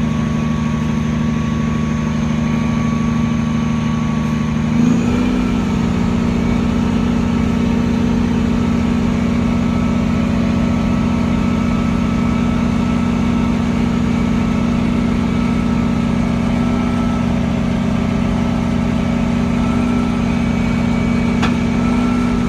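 Roll-off truck's engine running steadily while powering the hydraulic hoist that pulls the container up onto the rails. Its speed steps up about five seconds in and then holds.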